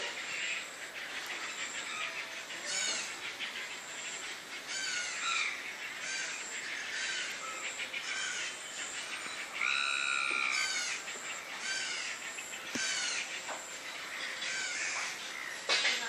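Many birds calling at once, short calls following each other every second or so. One longer, louder call comes about ten seconds in.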